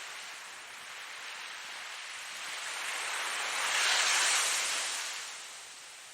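Ocean waves breaking and washing in: a steady surf hiss that swells to its loudest about four seconds in, then falls away.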